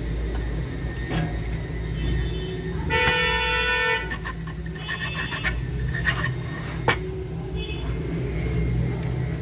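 Steady low rumble with a one-second horn-like tone about three seconds in, and a few sharp clicks.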